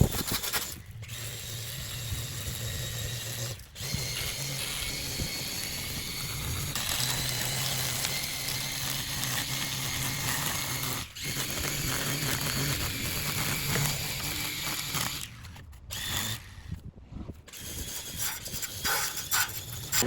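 Makita cordless battery lawn mower running as it cuts grass: a steady electric motor hum with a whine from the spinning blade. The sound drops away briefly a few times, with a longer dip near the end.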